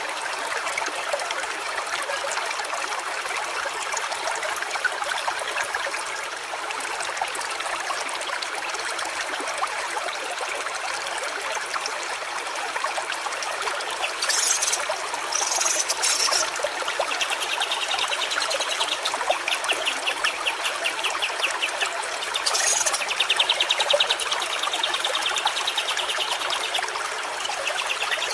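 Stream water trickling and running steadily. In the second half a high, fast pulsing trill comes and goes, with a few short high hissing calls over it.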